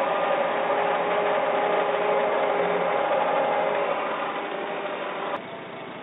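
Farm tractor engine running steadily, loud and even, fading from about four seconds in. A click about five seconds in, then the engine continues much quieter.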